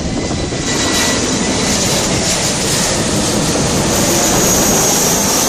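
Jet airliner's engines passing low on landing approach: a dense rumble that builds slowly, with a high whine growing louder toward the end.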